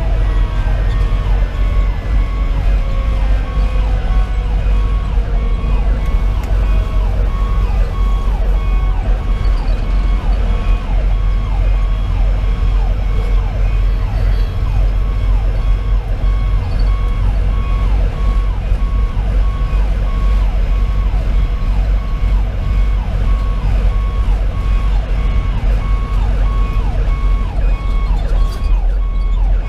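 Fire engine's diesel engine and road noise rumbling inside the cab while it drives under sirens. One siren falls in pitch over the first few seconds, and a rapidly repeating siren tone continues over the engine throughout.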